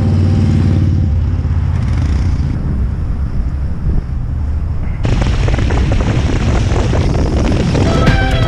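Motorcycle engines running loud, with a sudden louder, rougher burst of engine and exhaust noise about five seconds in. Music comes back in near the end.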